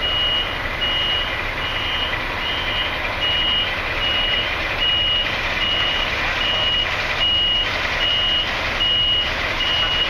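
An electronic warning beeper sounding a short, high beep at an even pace, about once every 0.8 seconds, over a steady rushing background noise.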